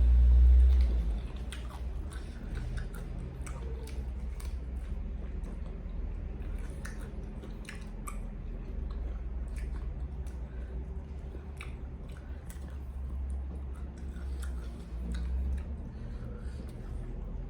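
A person chewing food close to the microphone, with scattered small clicks and smacks of the mouth over a steady low hum.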